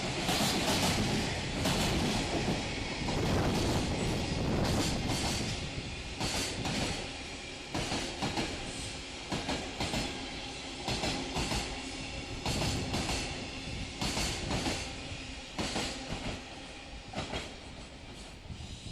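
Freight train of container wagons rolling past, its wheels clacking over the rail joints again and again. The sound grows gradually fainter over the second half as the train draws away.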